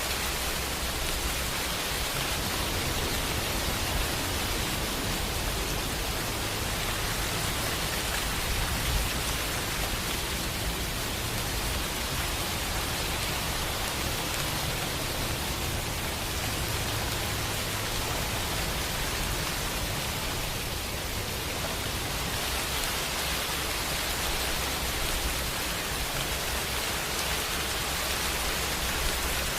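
Steady rain falling: a dense, even hiss of drops. A low rumble lies underneath through much of it.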